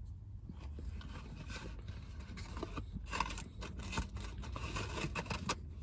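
Faint mouth and handling noises of a person eating a grilled chicken sandwich: soft scattered clicks and scrapes while chewing the last bite.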